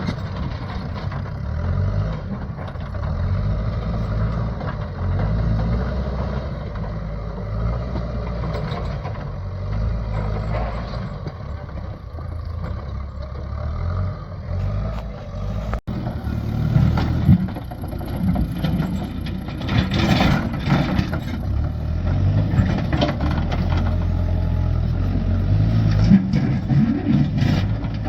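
Excavator's diesel engine running under load as it pushes rubble and large stones, its pitch rising and falling with the work. In the second half, rocks knock and clatter more often.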